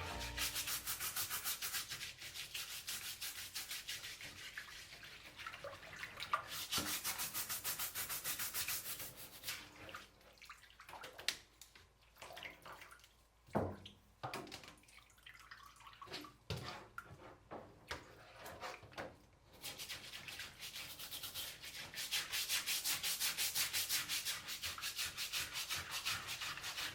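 Rapid back-and-forth scrubbing, a brush or scouring pad rubbed hard over a surface in quick, even strokes. It eases off through the middle, where there are a few sharp knocks, then picks up again.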